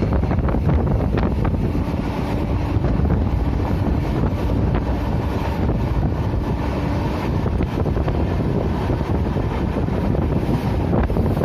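Passenger train running at speed, heard from inside a coach: a steady rumble of wheels on the rails with wind buffeting the microphone.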